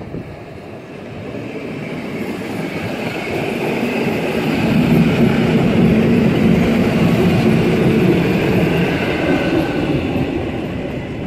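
Polish EN57 electric multiple unit approaching and passing close by on the platform track. The rumble of its wheels and running gear grows over the first five seconds and stays loud as the cars go past.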